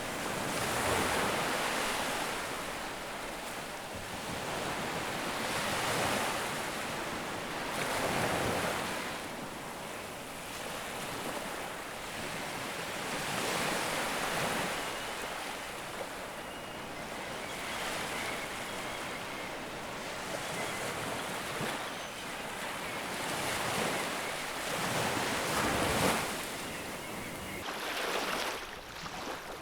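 Ocean surf: waves breaking and washing in, swelling and fading every few seconds, with the loudest surge near the end.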